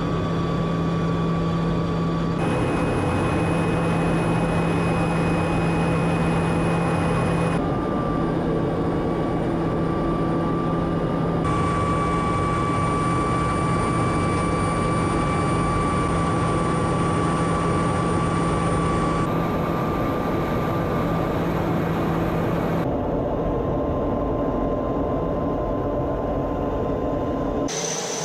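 Pilatus PC-21's turboprop engine running steadily, a constant drone with a high whine. Several abrupt cuts change the sound from one shot to the next.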